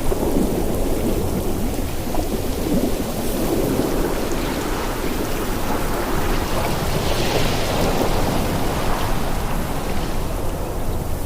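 Ocean surf: waves breaking and washing on the shore, a steady low rumble with a hissing swell of water about seven seconds in.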